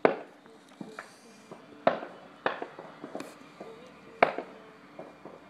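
Fireworks exploding in a string of sharp bangs, about six, at uneven intervals, each with a short fading echo. The loudest comes right at the start and another about four seconds in.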